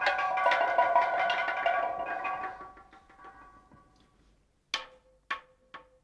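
Struck, pitched percussion music: a dense run of ringing strokes dies away over about four seconds, then after a short pause a few sharp, separate strikes begin, each with a brief ringing tone.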